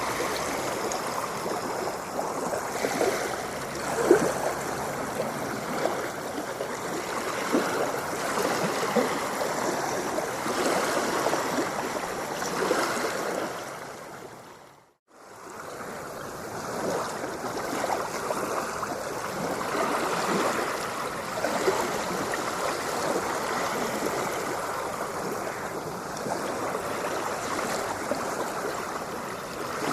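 Ocean waves splashing and washing steadily, with small splashes throughout. About halfway through the sound fades out to silence and then fades back in, as at a loop point.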